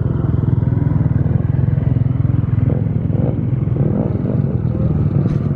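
Dirt bike engine running steadily at close range, a dense, even rumble that cuts off abruptly near the end.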